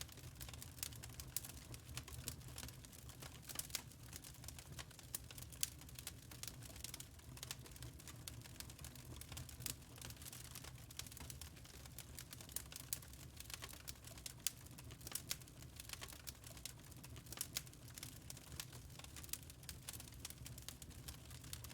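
Wood fire crackling in a fireplace, with many small irregular pops and snaps over a soft, steady low rumble.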